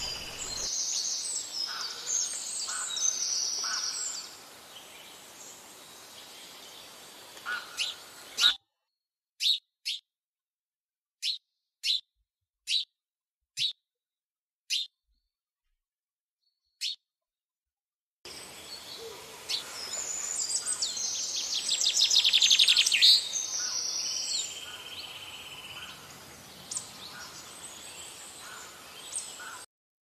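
Several birds chirping and calling over a steady background hiss. Through the middle stretch there are about eight short, sharp single calls roughly a second apart against silence. Then the mixed chirping returns, busiest about two thirds of the way through with rapid trills.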